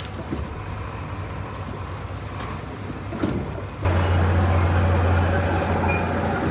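Heavy diesel earthmoving engine running with a steady low drone. A couple of knocks come a little past three seconds in, and then the engine suddenly gets louder, as if working harder, just under four seconds in.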